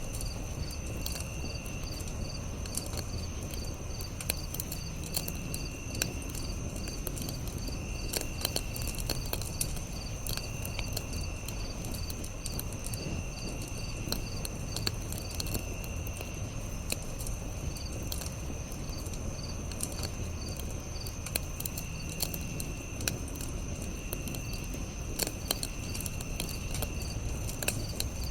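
Campfire crackling with scattered sharp pops over a low rumble, under a chorus of insects: a steady high trill and a lower chirping call that returns about every two to three seconds.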